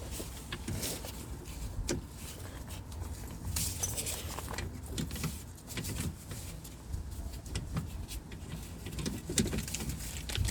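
Scattered light metallic clicks, taps and rattles of hand tools and fittings while a steering pipe is worked into place on a steering rack, over a steady low hum.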